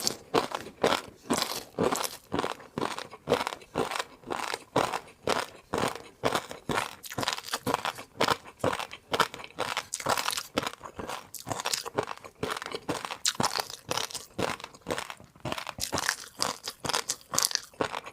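Close-miked chewing of a crunchy food: a steady run of crisp crunches, about three a second.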